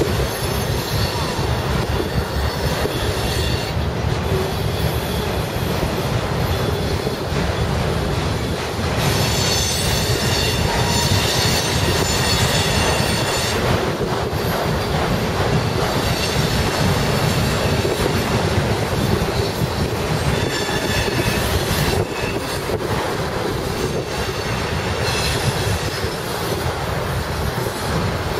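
Freight train of autorack cars rolling past with a steady rumble and clatter of steel wheels on rail. High wheel squeal comes and goes, strongest for a few seconds from about nine seconds in. Heavy wind buffets the microphone.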